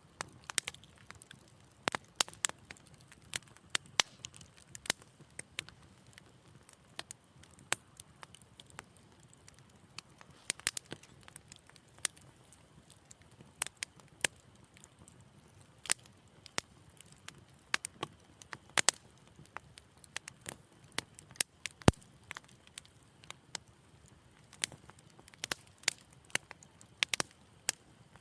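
Wood fire crackling in a fireplace: irregular sharp pops and snaps, sometimes several in quick succession, over a faint low rush of the flames.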